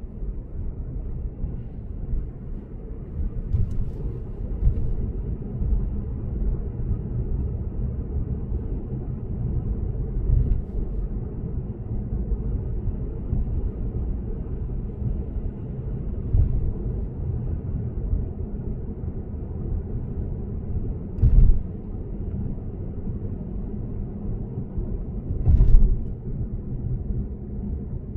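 Lexus GS450h cruising on an expressway: a steady low road and tyre rumble, broken by several short, louder thumps, the two strongest in the last third.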